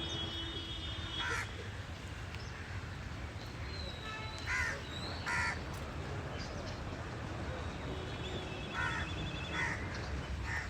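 Birds calling by a city lake: short harsh calls, first singly, then in a pair and later three in a row, with some thin high-pitched notes between them, over a steady low rumble.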